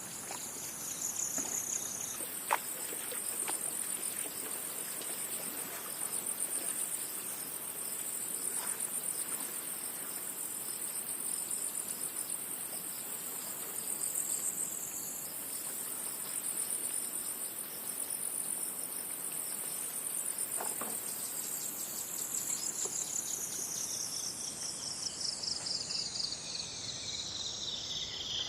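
Insects trilling in a continuous high-pitched, finely pulsing chorus; the pitch steps at a couple of points and slides steadily lower over the last several seconds. A single sharp click sounds about two and a half seconds in.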